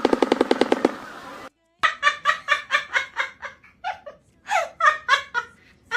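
A bird's laughing call: bursts of short, pitched notes repeated several times a second, with brief pauses between bursts. In the first second a rapid, even pulsing rattle, about ten pulses a second, stops abruptly before a short silent gap.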